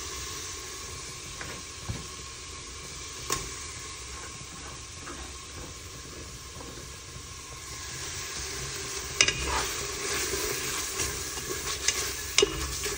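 Spiced masala sizzling steadily in a metal pot on the stove. From about two-thirds of the way in, a wooden spatula stirs the chicken through it, with sharp clicks and scrapes against the pot.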